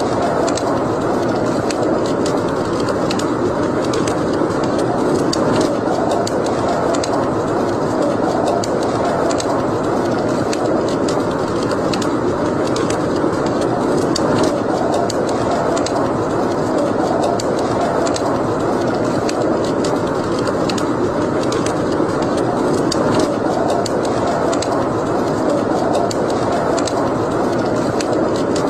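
Wood fire burning in a fireplace: a steady rush of flame with many small crackles and pops scattered through it.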